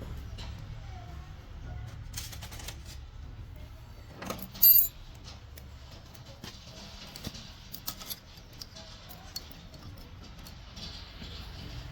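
Metal tools and parts clinking and tapping as they are handled, with one sharp metallic clink that rings briefly about five seconds in, over a low steady hum.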